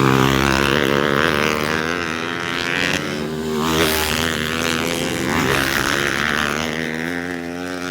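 Trail motorcycles racing past, their engines revving up and down as the riders work the throttle through the course, several bikes overlapping. The sound fades away just after the end.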